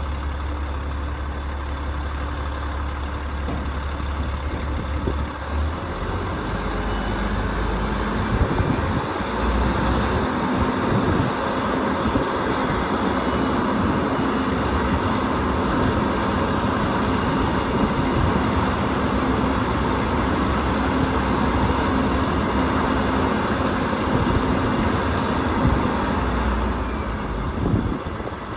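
Heavy machinery running steadily, with a low hum that shifts pitch about six seconds in and again near the end.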